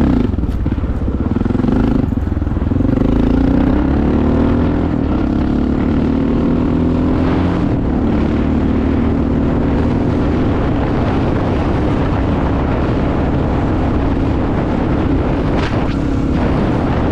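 Honda XR650L's single-cylinder four-stroke engine running under way, its pitch rising as it accelerates about three seconds in, then holding steady. A few short knocks stand out, one at the start, one around seven seconds and one near sixteen.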